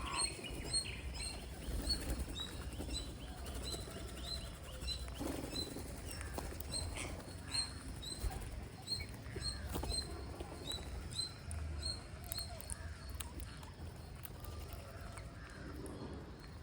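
A bird chirping over and over, short high chirps at a steady pitch about two a second, stopping about twelve seconds in, over a low rumble.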